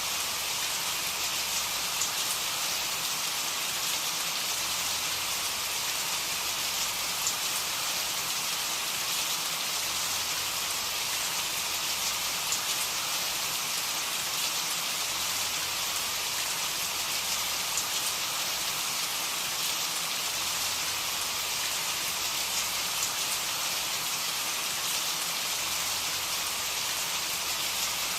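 Steady rain, an even hiss with scattered small drop ticks throughout.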